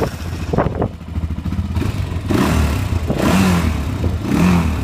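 Honda 400EX's air-cooled single-cylinder four-stroke engine running just after start-up. It gets louder twice, about two and four seconds in, and runs great.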